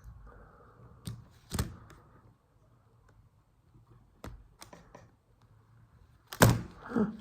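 Scattered sharp clicks and taps of small tools and plastic parts while a smartphone is being taken apart, the loudest knock about six and a half seconds in.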